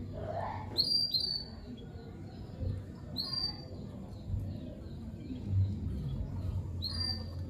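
Lovebirds giving short, sharp, high-pitched chirps that sweep downward: two in quick succession about a second in, another a couple of seconds later, and one near the end, over a low steady hum.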